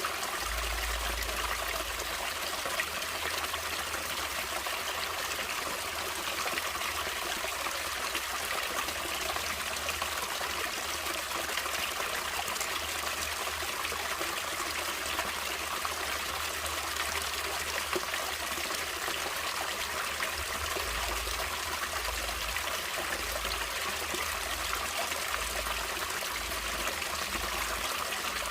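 Natural stream water flowing steadily, a continuous trickling rush with no breaks.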